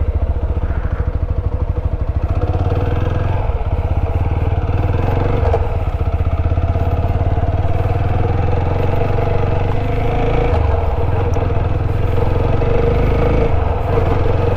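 Motorcycle engine running steadily as the bike is ridden: a TVS Apache RTR 160's single-cylinder four-stroke.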